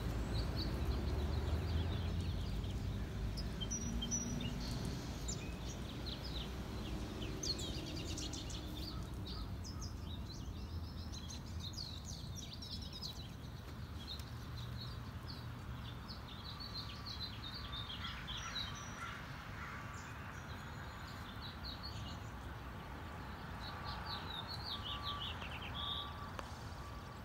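Small birds chirping in many short, quick calls, thickest in the middle and again near the end, over a steady low rumble.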